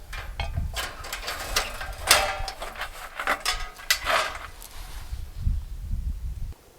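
Close handling noise of campfire gear and firewood: an irregular run of clattering knocks, clicks and scrapes of wood and metal, which cuts off abruptly near the end.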